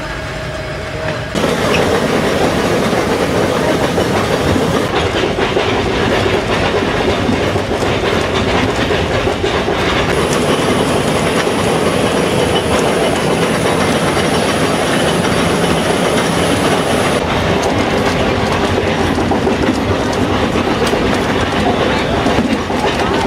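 Mount Washington Cog Railway train running on its rack track: a loud, steady rattle and rumble that comes in suddenly about a second and a half in. A thin high whine sits in the middle of it.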